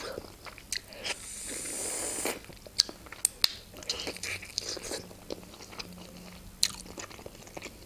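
Close-miked eating sounds: biting and chewing a khinkali dumpling, with scattered sharp wet clicks and smacks. A soft high hiss runs from about one to two seconds in.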